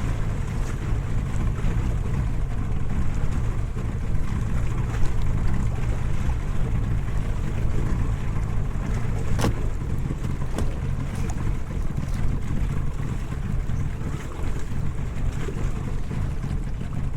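Boat engine running steadily at low throttle in reverse, holding the boat against a strong current, with water and wind noise. A single sharp click about halfway through.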